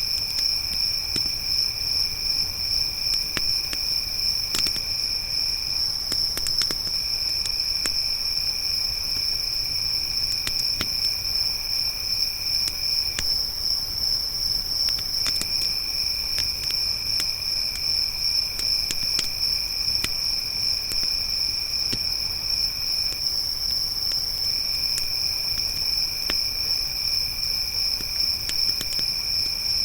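Crickets trilling without a break, a high steady trill over a lower one that pauses briefly three times, with a campfire crackling underneath in scattered sharp pops.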